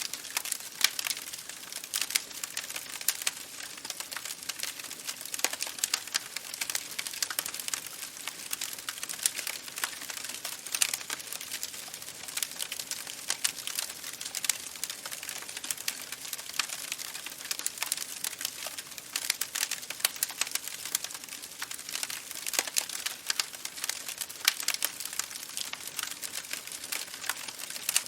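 Campfire burning: a steady hiss with dense, irregular crackles and pops of burning wood.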